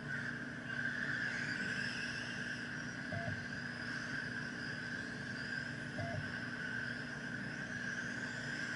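Electric RC stock trucks racing a lap circuit: their motors whine in overlapping tones that rise and fall in pitch as they speed up and slow down for corners, over a steady hiss.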